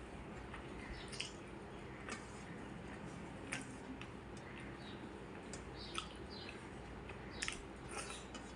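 Eating sounds: faint, irregular small clicks and squishes as rice and fish curry are mixed and chewed.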